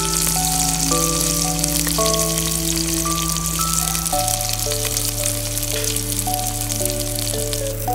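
Sliced onions sizzling and crackling as they fry in oil in a clay pot. Background music plays over the sizzle: a simple melody of held notes over a low bass.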